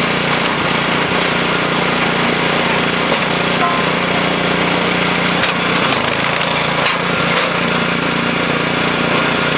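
Small gas engine of a SuperSplit flywheel log splitter running steadily, its pitch dipping briefly about halfway through as it takes up load, with a few faint knocks as logs are split.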